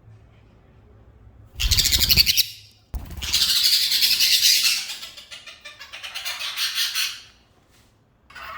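A pet bird squawking loudly in three long, harsh, rapidly pulsed calls, the first short and the next two longer.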